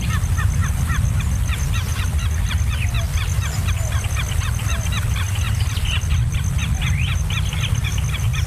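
Nestling birds cheeping in a dense chorus of rapid, short, high chirps, the begging calls of chicks being fed, over a steady low rumble.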